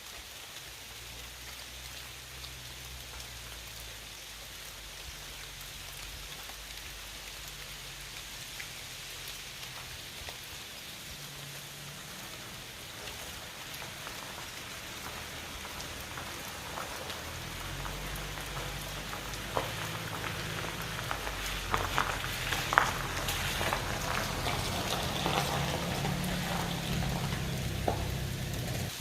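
Heavy rain falling and pattering on surfaces, growing louder through the second half, with sharp drip taps standing out near the end.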